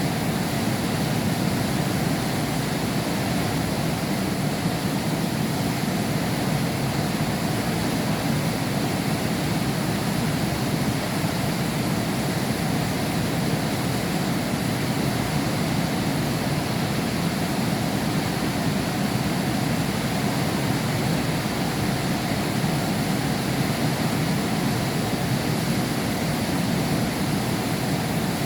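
Heavy rain falling in a steady, unbroken downpour, heard muffled through window glass.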